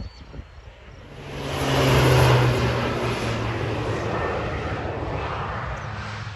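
A low-flying propeller aeroplane passing over. Its engine drone swells up about a second in, is loudest about two seconds in, then fades slowly, the hum dropping a little in pitch as it goes away.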